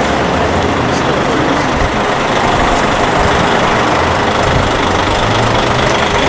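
City street traffic noise: a steady rumble of vehicle engines, heavy vehicles among them, with no single sharp event.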